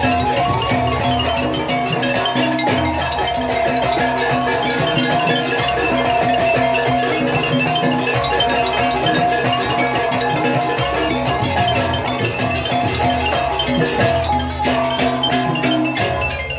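Gamelan music for a jaranan Banyuwangi dance: bronze metallophones ringing steady melodic patterns over drumming, with the drum strokes growing sharper and denser near the end.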